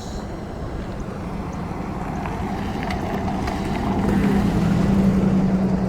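A steady engine hum over wind noise, growing louder toward the end.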